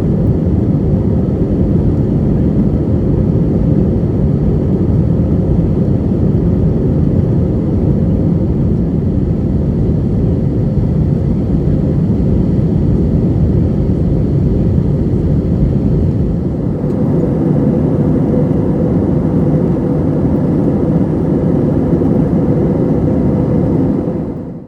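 Steady jet engine and airflow noise inside the cabin of a jetBlue Airbus A321 in flight, a constant rush with a faint hum in it; it fades away at the very end.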